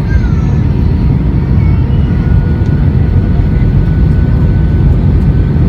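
Airbus A320 jet airliner during its landing, with the steady, loud low rumble of engines and rushing air and a faint steady whine above it.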